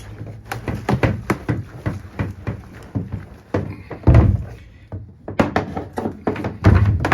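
Small fuel can holding petrol and two-stroke outboard oil being shaken to mix them: fuel sloshing inside and the can thunking in an irregular run of strokes, loudest about four seconds in and again near the end.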